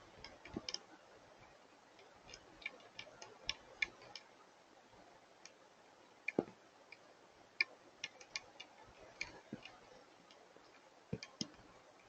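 Sparse hailstones striking hard surfaces, making irregular sharp ticks and taps at random intervals, with a few heavier knocks among them.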